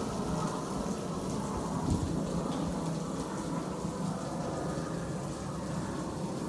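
Steady sizzling of diced breakfast sausage, bacon and hash browns frying on a Blackstone propane flat-top griddle, with a low, even rumble underneath.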